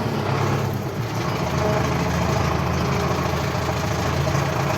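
Farm tractor's diesel engine running steadily at low revs.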